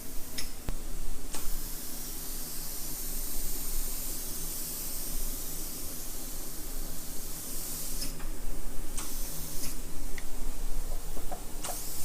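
Powder coating spray gun hissing as it sprays, in long spells broken by short pauses, over a steady low hum.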